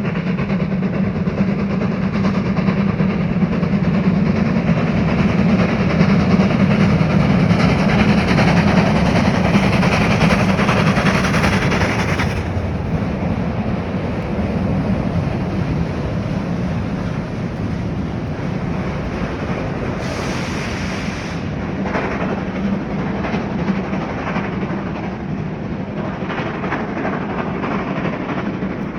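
A train running on rails: a continuous loud rumble with a low hum, loudest around ten seconds in and easing after about twelve seconds. Scattered wheel clicks over the rails come in the second half.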